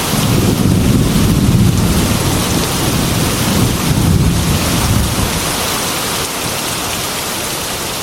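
Heavy rain falling steadily on a glass window, with a deep rolling rumble of thunder that is loudest in the first few seconds and dies away about six seconds in.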